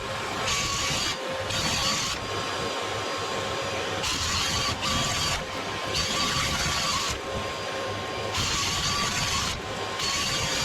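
A chimney sweep's vacuum runs steadily with a whine, under irregular rasping scrapes of the sweeping brush and rods working in the flue, each scrape starting and stopping every second or so.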